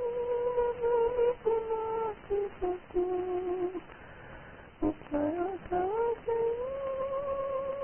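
A wordless melody hummed in a single pure-sounding line: a long held note, then short notes stepping down, a brief pause about four seconds in, then notes sliding upward into a long held tone.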